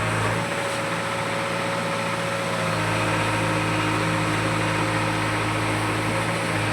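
Diesel engine of heavy farm or earth-moving machinery running steadily at a constant speed.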